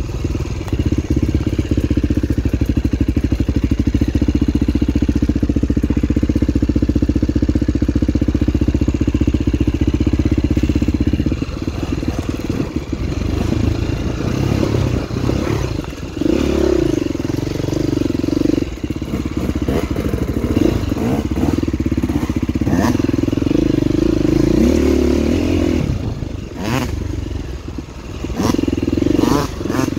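Enduro dirt bike engine running under load, steady for the first stretch, then revving up and down repeatedly, with a few sharp knocks and clatter near the end from the bike going over rough ground.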